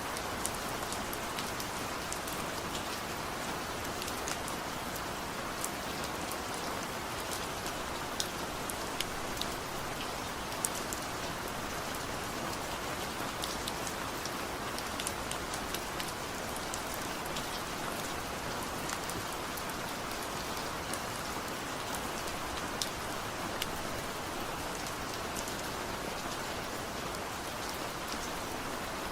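Steady rainfall with no thunder: an even hiss of rain with individual drops ticking sharply on a surface, scattered irregularly throughout.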